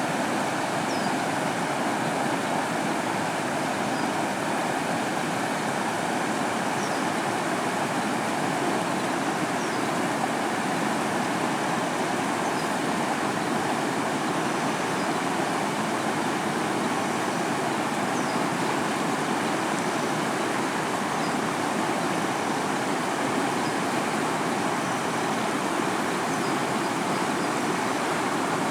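River water rushing: a steady, unbroken noise at an even level, with a few faint high chirps above it.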